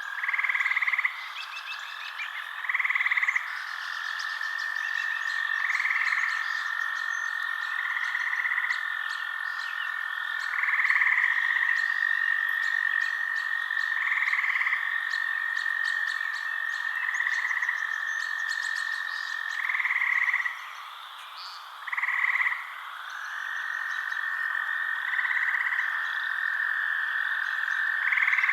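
Night-time forest chorus of calling frogs and insects: a steady high drone, with a louder call repeating about every two to three seconds and lasting about a second each time, and faint rapid ticking chirps above. There is a short lull a little after twenty seconds in.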